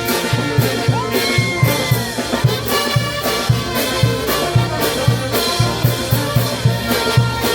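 Brass band playing festive dance music: trumpets and trombones over a steady bass-drum beat with cymbals.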